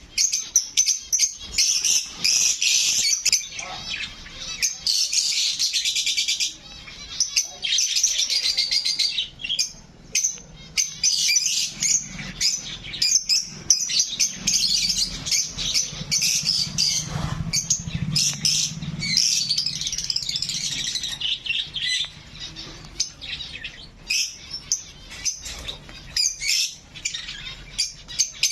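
A flock of small cage birds in an aviary chirping and twittering at once, a dense, continuous high-pitched chatter.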